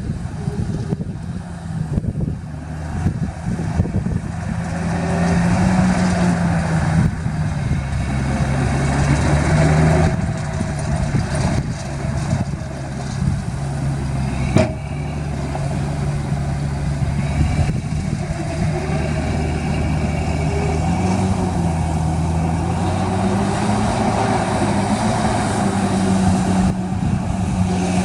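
Heavy diesel earthmoving machine engine running, its pitch rising and falling several times as it revs under load, with a single sharp knock about halfway through.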